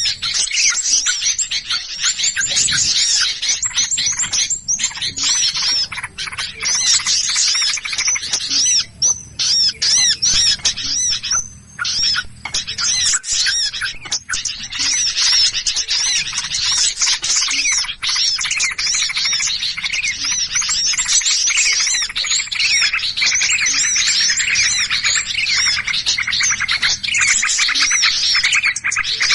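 Many small birds calling at once in a dense, continuous chatter of rapid high chirps and squawks: a lure recording of agitated birds used to draw small birds in.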